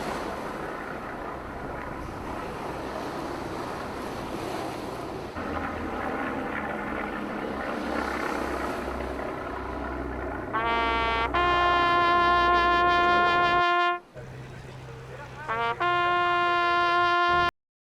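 Wind buffeting the microphone over open-air background noise, then a brass instrument sounding a long held note twice, each rising into pitch at its start; the second note cuts off abruptly.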